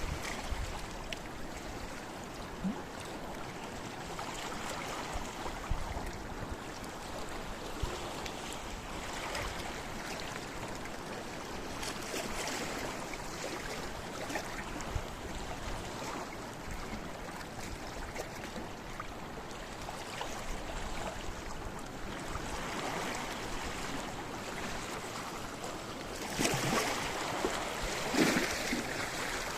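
Sea waves washing over and splashing among rocks on a rocky shore, a steady surf with small splashes, and a bigger wave breaking near the end.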